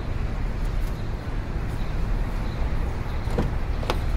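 Car engine idling with a steady low rumble; two short clicks near the end.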